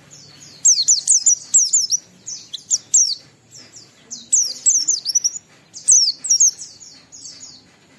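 White-eye (pleci) singing in fast bursts of high, quick, down-slurred twittering notes, phrase after phrase with short pauses between. This is the rapid, continuous 'ngalas' song that keepers use to lure other white-eyes into singing.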